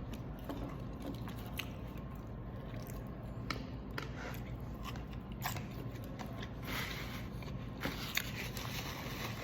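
Close-up eating sounds: biting and chewing at the microphone, with scattered small wet clicks and crunches.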